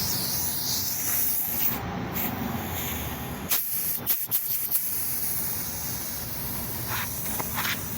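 Steady hiss of pressurized gas escaping from a refrigeration system's lines as the leak-test pressure is let out before vacuuming. A few sharp clicks come about halfway through.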